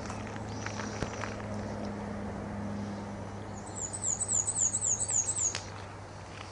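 Songbird singing a short trill: about nine quick, high notes, each sliding downward, over roughly two seconds, starting past the middle.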